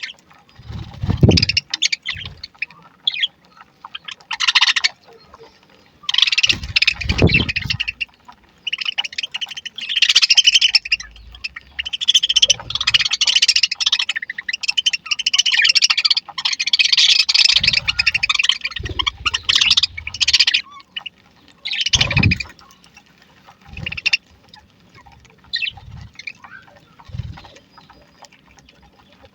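A flock of budgerigars chattering and chirping in bursts, busiest in the middle, with a few low thuds now and then.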